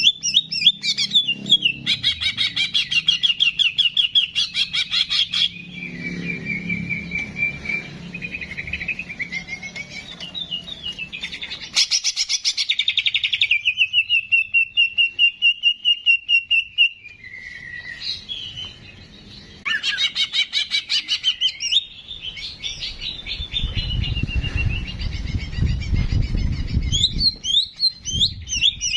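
Songbird singing in phrases of rapid chattering trills, with a long held whistled note about halfway through; a low rumble sits under the song about three quarters of the way in.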